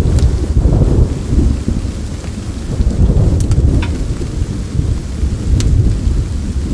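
Wood fire and rain ambience: a heavy, continuous low rumble under a hiss of rain, with a few sharp crackles from the burning wood.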